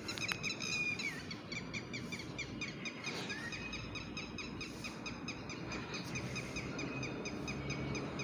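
Birds calling in the background, a quick run of short high chirps repeated several times a second.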